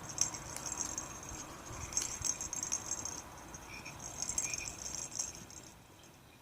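High, fast rattling in two stretches, with a few short chirps, from the toys on a Fisher-Price Rainforest baby play mat.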